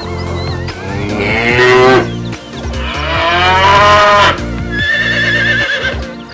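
Cow mooing: two long moos, the second longer than the first.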